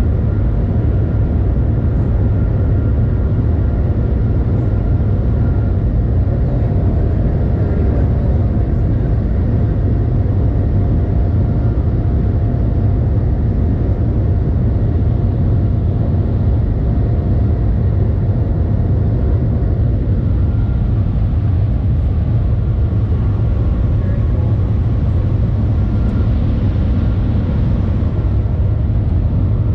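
Steady low rumble inside the cabin of the Shanghai Maglev (Transrapid) train as it travels, with a faint whine that fades out a little after halfway.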